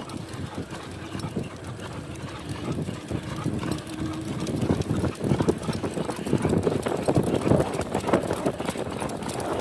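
Rough, irregular patter and clatter of a ride over rough ground with a dog running alongside, with a quick rhythmic clip-clop of footfalls. It grows louder near the end.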